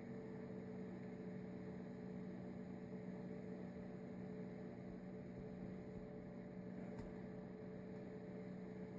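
Steady low electrical hum with a couple of held tones, unchanging, and one faint click about seven seconds in.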